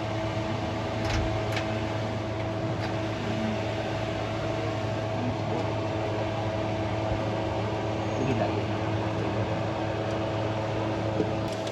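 Steady machine hum with a few light clicks.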